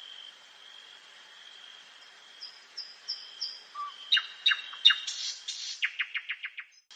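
Nightingale singing one song phrase: a few soft repeated high whistles build into loud sharp clicking notes, a harsh rasping burst and a fast rattling run of about eight notes a second. A new phrase starts right at the end.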